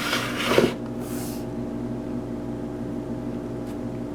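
Steady low hum of several even tones, with a brief rustle of handling in the first moment and a short hiss a second later.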